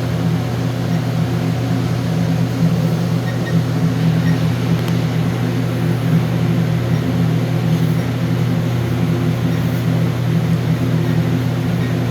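Steady low mechanical hum, a constant machine drone with a deep tone and its overtones, unchanging throughout.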